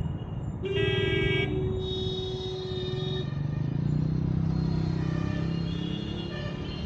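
Road traffic with engines running and a vehicle horn honking: a loud blast under a second in, then a held note lasting until about three seconds in.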